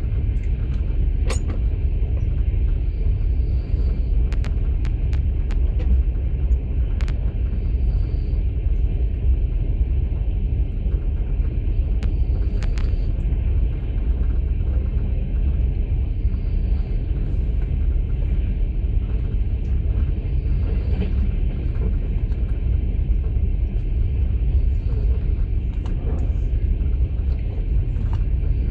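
Inside a Russian platzkart sleeper carriage of a moving passenger train: a steady deep rumble of the car running on the track, with a few sharp clicks here and there.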